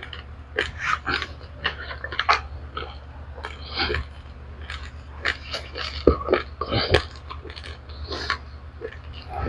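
Close-up crunching and chewing of roasted raw rice grains: many short, sharp, irregular crackles of hard grains breaking between the teeth, over a low steady hum.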